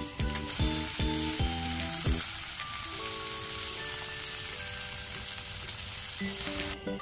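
Egg-coated beef pancakes (yukjeon) sizzling as they fry in a pan, with background music over it. The sizzle cuts off abruptly near the end.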